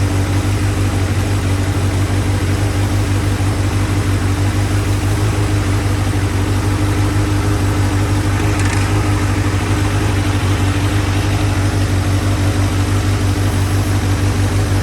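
Motorcycle engine running at a steady idle with a fast, even pulse and no change in speed. This is just after a vacuum leak was fixed, with the carburettors still not synchronized.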